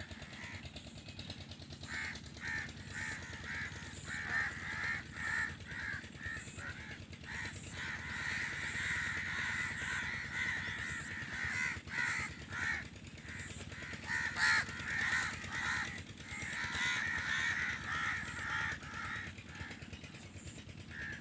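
Birds calling again and again in short, rapid notes, thickening into dense chattering in the middle and again near the end.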